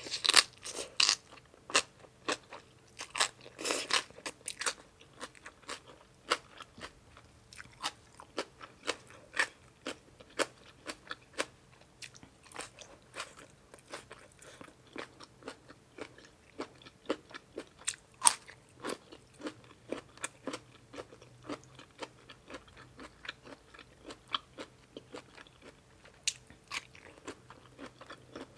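A person chewing crunchy food close to the microphone, with a steady run of sharp crunches, densest in the first few seconds and with one loud crunch a little past halfway.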